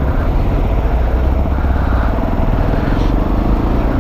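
Peda Tekken 250 motorcycle engine running steadily while riding, with wind rush on the microphone.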